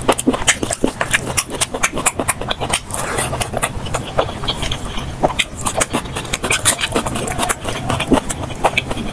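Close-miked eating sounds of someone eating curry and rice, played back at double speed: a fast, dense run of lip smacks and chewing clicks.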